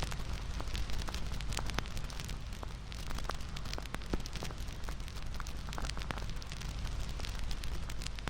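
Wood fire crackling: a steady hiss and low rumble with irregular sharp pops and snaps.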